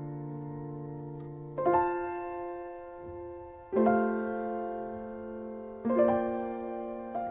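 Slow solo piano background music, chords struck about every two seconds and left to ring and die away.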